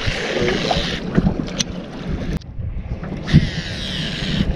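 Strong gusty wind buffeting the microphone on a small boat out on open water, with a rumbling low roar and a rushing hiss that dies away briefly about halfway through before returning.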